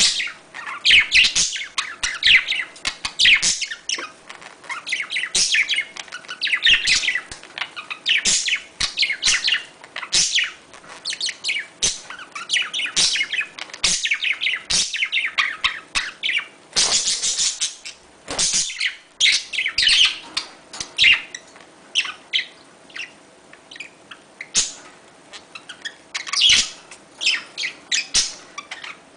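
Budgerigars chattering and warbling in a steady stream of short, high chirps, with one longer, harsher call just past halfway. This is the budgie courtship chatter played to encourage pairs to breed.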